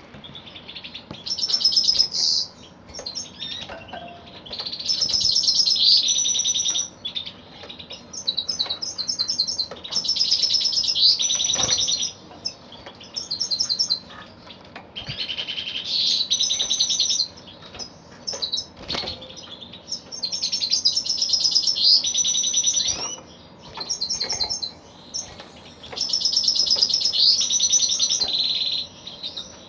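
Male goldfinch singing: fast, high twittering phrases a second to a few seconds long, repeated again and again with short pauses between them.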